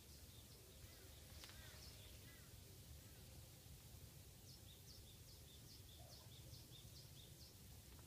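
Faint birds chirping over a low steady rumble: scattered short high chirps early on, then a quick run of about ten high notes, roughly three a second, in the middle.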